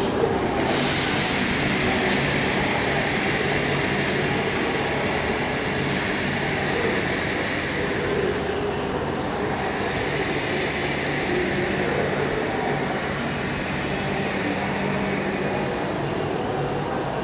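AnsaldoBreda Fyra V250 electric high-speed train running in the station: a steady hum and rush with a low drone underneath. A hiss flares up about a second in and fades.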